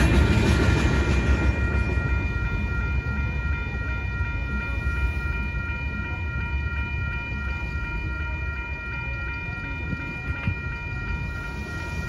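Last cars of a freight train rumbling across the grade crossing, fading within the first couple of seconds as the train clears, while the crossing's warning bell rings steadily.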